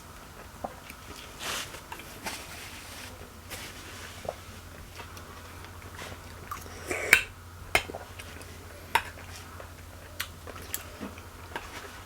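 People chewing and biting ripe, juicy papaya, with scattered mouth clicks and a few sharp knocks of plate or cutlery. The loudest knock comes about seven seconds in. A faint steady hum runs underneath.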